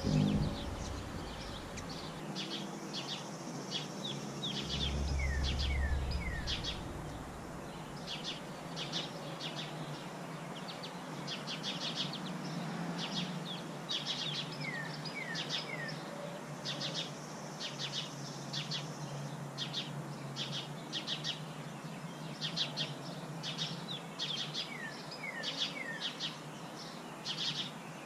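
Birds chirping in quick runs of short, high notes, with a call of three short falling notes repeated about every ten seconds. A low rumble sounds under it in the first few seconds.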